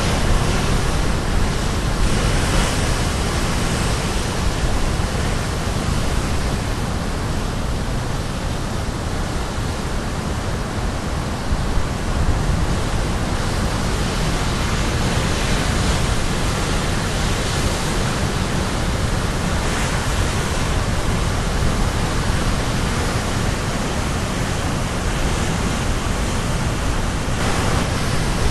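Caribbean Sea surf breaking on the shore in a steady wash of noise that swells and eases slowly, with low wind rumble on the microphone.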